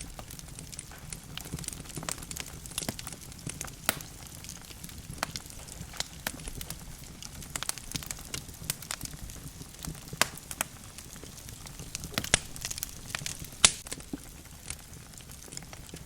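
Wood fire burning in a fireplace: logs crackling with irregular sharp pops over a low steady rumble, two louder pops about twelve and thirteen and a half seconds in.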